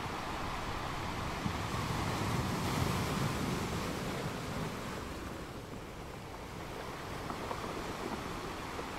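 Steady rushing water noise of a reef aquarium's circulation. It swells between about two and three seconds in and eases a little later.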